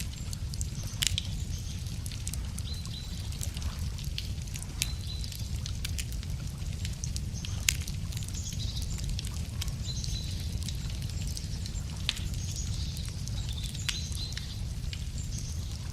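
Wood fire crackling, with sharp pops every second or two over a steady low rumble. Birds chirp in short high calls at several points.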